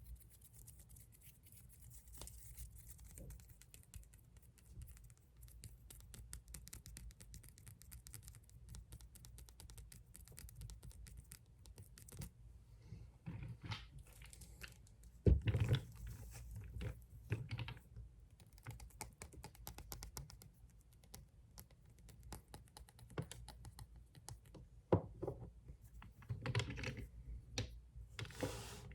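Fast tapping and scratching on glass nail polish bottles. A dense run of rapid light clicks fills roughly the first twelve seconds, followed by slower, heavier knocks, the loudest a sharp knock about fifteen seconds in.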